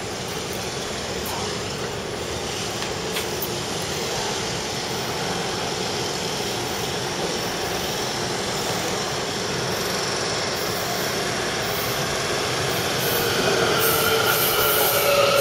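Taipei Metro C371 electric train running on the line: a steady rumble that grows louder, with whining tones from the motors or wheels coming up near the end.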